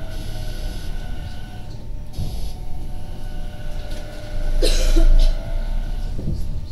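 Tobu 50070-series electric train running on the rails, heard from on board: a steady low rumble with faint motor tones, and a louder rush of noise about five seconds in.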